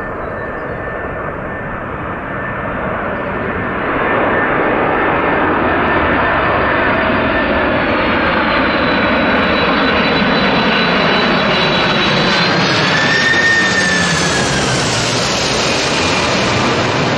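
Jet airliner's engines getting louder as the aircraft passes close by. A high engine whine bends up and then down in pitch about three-quarters of the way through.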